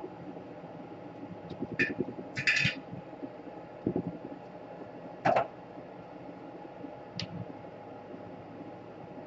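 A few short clicks and taps of small tools and parts being handled on a workbench, over a steady fan-like hum.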